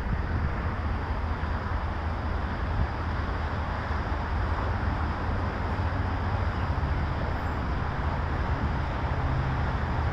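Steady low rumble of vehicle engines and road traffic, with a slightly higher hum joining in near the end.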